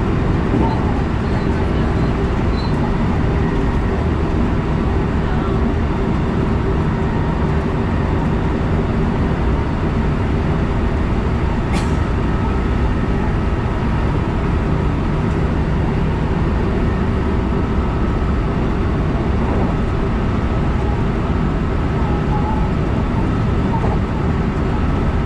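Electric commuter train running, heard from inside behind the driver's cab: a steady rumble of wheels on the track with a faint motor whine, and one sharp click about twelve seconds in.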